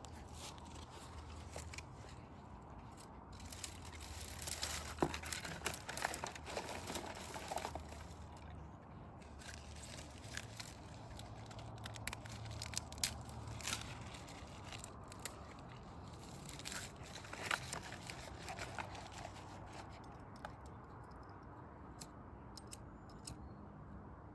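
Wood fire crackling, with irregular pops and snaps over a low steady background hum; the pops come in denser spells a few seconds in, in the middle and again later on.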